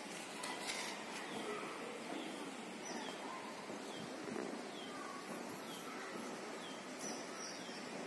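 A bird calling, repeating a short, high, falling chirp every second or less from about three seconds in, over steady outdoor background noise.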